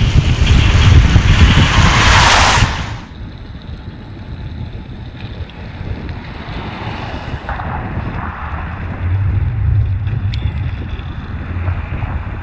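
Wind buffeting the microphone of a rider on an electric unicycle, loud for the first few seconds and then dropping off suddenly, leaving a quieter low rumble of riding noise.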